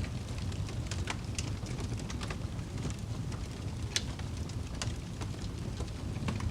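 Campfire burning: a steady low rumble of the flames with irregular sharp crackles and pops of burning wood, the loudest pop about four seconds in.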